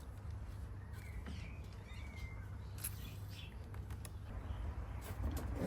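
A bird calling faintly about a second in, over a steady low rumble, with a few light clicks.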